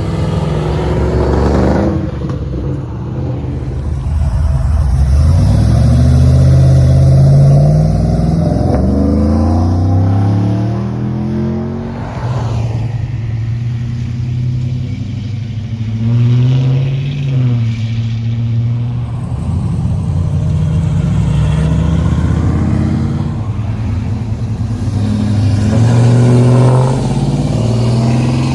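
A car engine running loud, revved up and let back down several times, its pitch rising and falling with each rev.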